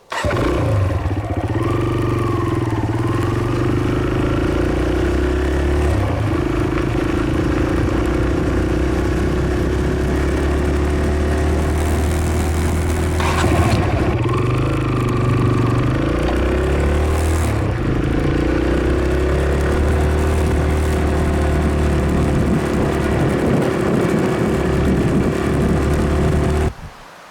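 Dirt bike engine running under way, recorded from a camera mounted on the bike. Its pitch dips and rises a few times with the throttle. It cuts off abruptly near the end.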